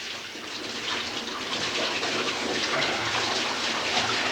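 Water running and splashing into a bathtub, a steady rush that grows louder over about the first second.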